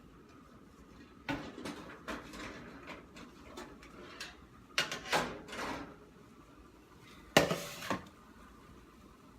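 Pans and utensils clattering in a kitchen: a run of knocks and scrapes, with the loudest clank near the end.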